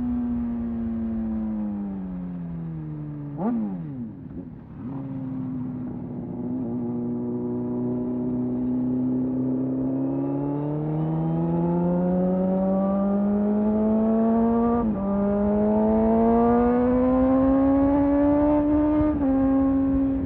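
Honda CBR600RR inline-four engine on the move. It slows on engine braking, gives a quick throttle blip about three and a half seconds in, runs at low revs, then accelerates hard with two upshifts, about 15 and 19 seconds in.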